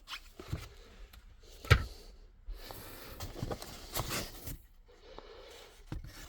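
Cardboard packaging being handled and shifted about: rustling and scraping, with several sharp knocks, the loudest about two seconds in.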